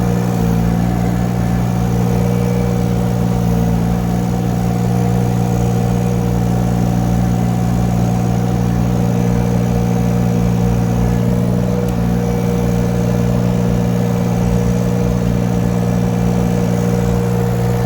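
Mini excavator's engine running steadily at an even speed.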